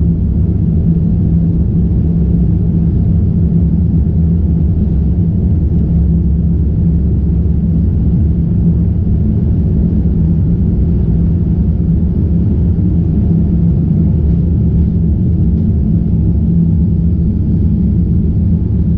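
Boeing 787-9 Dreamliner engines at high thrust, heard inside the cabin as a loud, steady rumble with a low drone.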